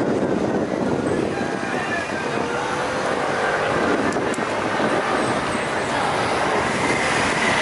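Steady rushing wind and road noise from a moving fixed-gear bicycle ride, mixed with passing vehicle traffic.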